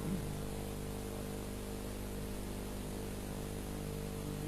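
Steady electrical mains hum, several low tones at once, under a constant hiss of the recording or sound system, in a pause between phrases of Quran recitation.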